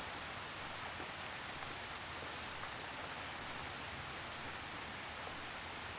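Steady rain with a soft, even hiss of drops falling on a surface, a few faint individual drop ticks standing out here and there.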